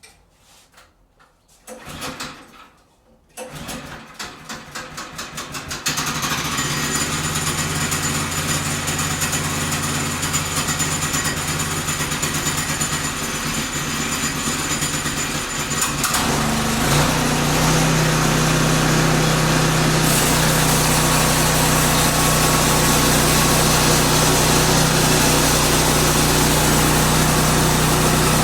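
Woodland Mills sawmill's gas engine being started: a few uneven cranking pulses, then it catches about six seconds in and runs steadily. Around sixteen seconds in it speeds up to a steady higher run, ready to cut.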